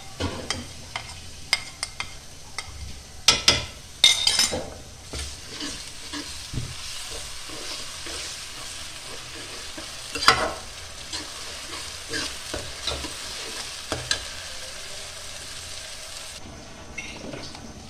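Chopped onions, tomatoes and green chillies sizzling as they fry in a metal karahi, stirred with a metal spoon that scrapes and knocks against the pan, loudest in a few clanks about three, four and ten seconds in. The sizzling fades about a second before the end.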